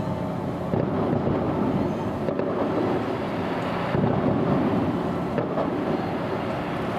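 Distant fireworks booming and rumbling without let-up, swelling about a second in and again about four seconds in.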